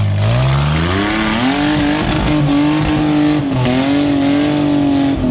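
Off-road rig's engine, running with open headers, revved up hard and held at high revs, with a brief dip about three and a half seconds in before it climbs again.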